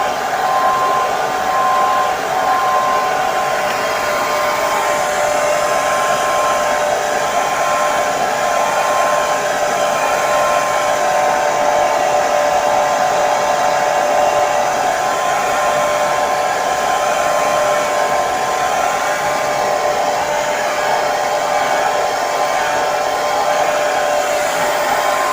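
Hair dryer running continuously: a steady rush of airflow with a constant motor whine.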